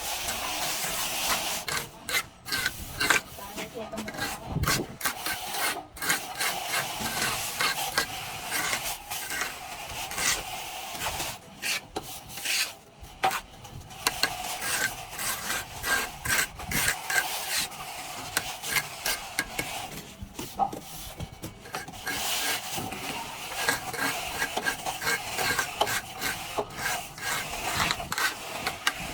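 A plastering tool scraping and rubbing over a wall surface in repeated, irregular strokes.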